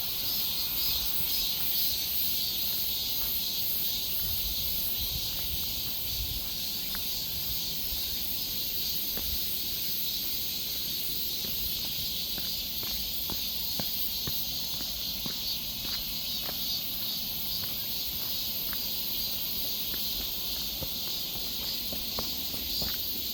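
Steady high-pitched drone of a forest insect chorus, with a low rumble underneath and scattered faint clicks.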